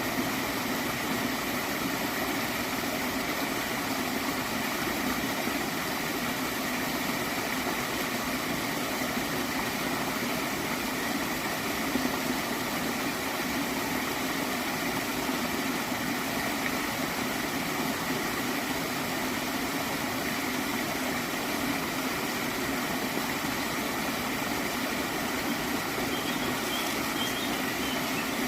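Small water stream flowing and gurgling steadily and evenly.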